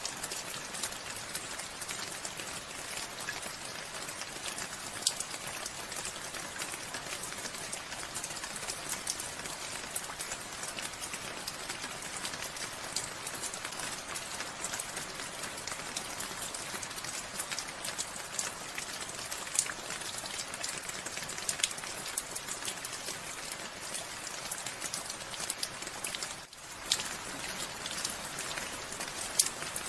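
Steady rain falling, an even hiss scattered with many distinct single drop impacts. The sound briefly drops away about 26 seconds in, then carries on as before.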